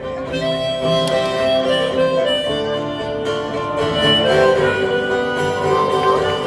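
Harmonica playing long held notes of a melody over strummed acoustic guitar: the instrumental intro of a folk song, played live.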